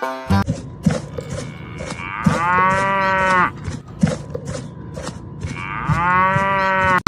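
A cow mooing twice, each moo a long drawn-out call of over a second, with a regular knocking about twice a second underneath.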